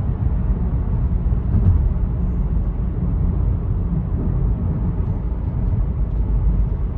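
Steady low engine and road rumble inside the cabin of a 2017 VW Golf R on the move, its 2.0-litre turbo four (EA888 Gen 3) having just set a cylinder 3 misfire code.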